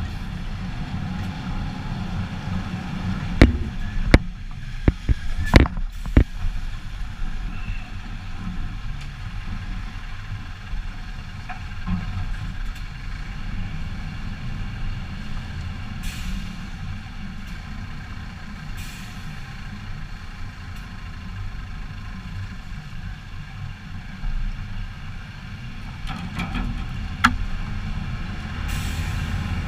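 Heavy truck diesel engine running with a steady low rumble. Several sharp knocks come between about three and six seconds in, and one more near the end, with a few short hisses in between.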